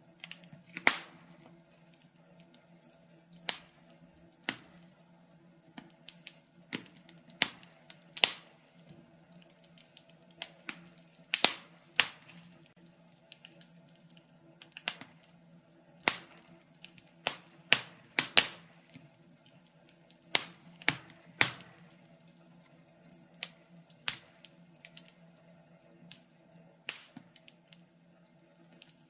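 Wood fire in a fireplace crackling, with irregular sharp pops and snaps, some in quick clusters, over a faint steady low hum.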